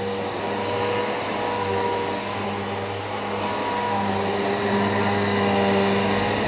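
Eureka PowerSpeed vacuum cleaner running steadily, a rush of airflow with a steady high motor whine. A deeper rumble comes in near the end.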